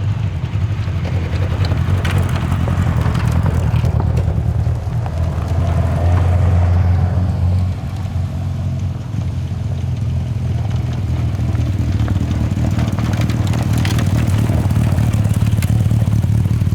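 A car engine running at low, fairly steady revs, with a brief dip in level about eight seconds in.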